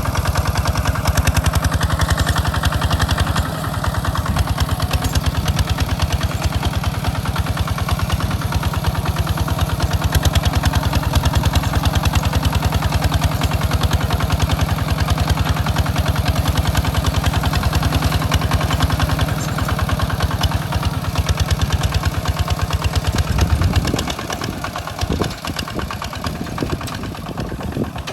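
Walk-behind hand tractor's engine running with a steady, even firing beat; about four seconds before the end the steady running drops away to a quieter, uneven sound.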